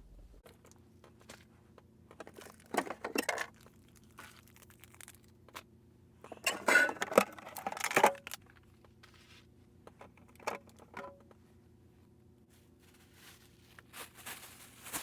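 Scattered rustling, crinkling and tearing handling sounds in a small enclosed space, loudest in a cluster around the middle, over a faint steady low hum.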